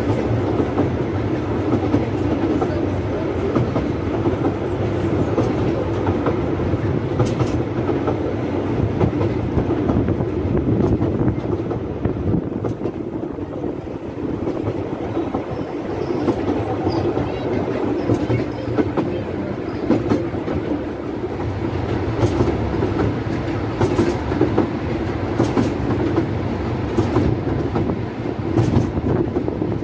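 Narrow-gauge railway carriage running along the line: a steady rumble of wheels on rails, with scattered clicks over rail joints that come more often near the end.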